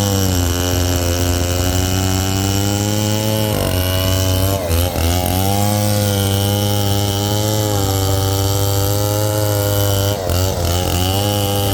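Chainsaw with a freshly rebuilt engine running steadily at high revs. Its pitch sags and recovers about 4 s in and again near 10 s.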